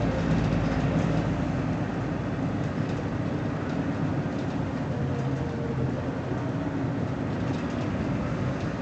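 BMC Belde 220-SLF city bus under way, its diesel engine running with a steady low drone and a faint whine above it.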